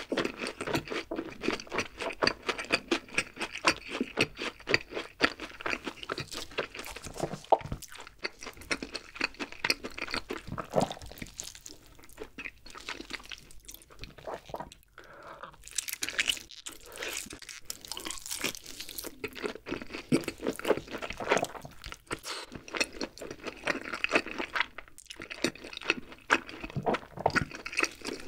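Close-miked eating sounds: a person chewing with dense clicking mouth noises. After a quieter pause about halfway through, there are bites into a BBQ-glazed grilled chicken leg dipped in cheese sauce, then more chewing.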